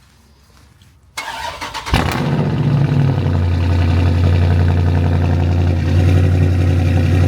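Car engine started: the starter cranks briefly, the engine catches about two seconds in and settles into a steady idle.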